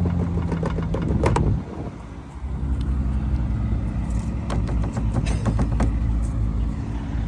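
Car engine running steadily, dipping in level about a second and a half in, then settling into a lower, steady rumble with a few scattered clicks.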